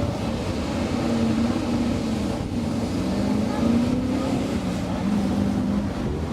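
A car engine running steadily, its pitch wavering a little, with wind buffeting the microphone.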